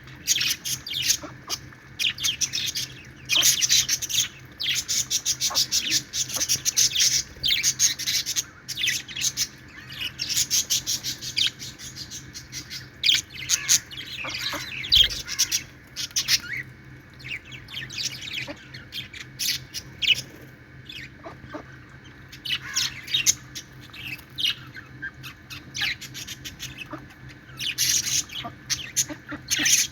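Budgerigars chattering: fast runs of high chirps and warbles in bursts, with short lulls in between.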